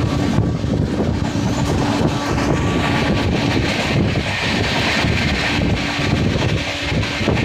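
A moving passenger train heard from on board: a steady rumble of wheels on rails mixed with rushing air.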